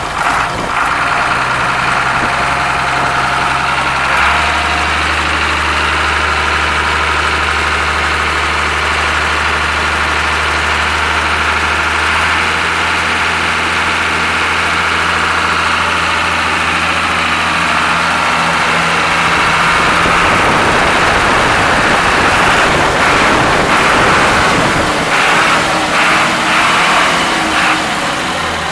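Ashok Leyland bus diesel engine running at idle after being started following five or six years of standing unused. Its low note shifts about four seconds in, then it runs steadily, a little uneven near the end.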